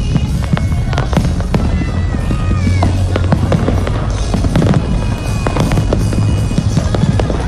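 Fireworks display going off: a dense run of bangs and crackles, one after another, over a low steady rumble.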